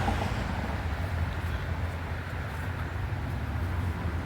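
Steady low rumble of road traffic, a car's tyre noise fading a little as it passes.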